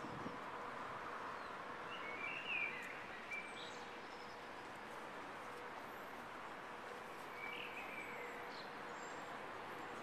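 Birds chirping: two short bursts of high chirps, about two seconds in and again near eight seconds, over a faint steady city hum.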